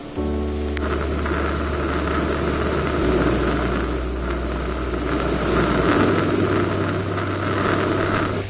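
Steady rushing roar of a camping gas stove burner, over music with held low bass notes that change twice.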